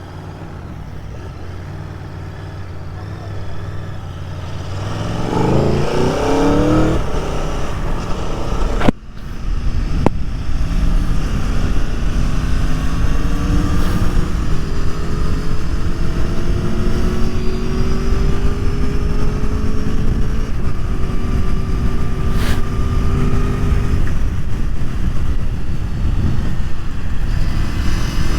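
Aprilia Tuono V4 1100's V4 engine running low for a few seconds, then pulling hard through the gears, its pitch rising in each gear and dropping back at each shift, over wind noise. A sharp crack comes about nine seconds in, with a smaller one a second later.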